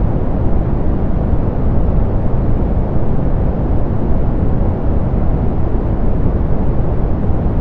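Soft pink noise, electronically generated: a steady, even hiss, heaviest in the low end and fading away in the highs.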